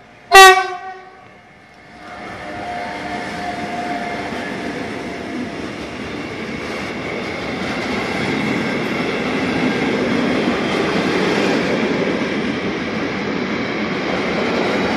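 Electric locomotive's horn gives one short, loud blast. Then the rolling noise of a long intermodal freight train passing builds up and carries on steadily as its wagons go by.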